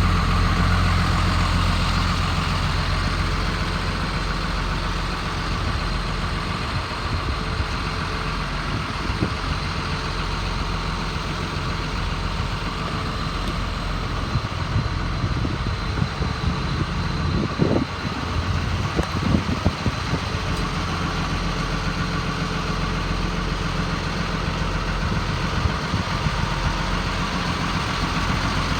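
5.9-litre Cummins inline-six diesel of a 2002 Sterling M8500 bucket truck idling steadily, a little louder for the first few seconds. A few sharp knocks come about two-thirds of the way through.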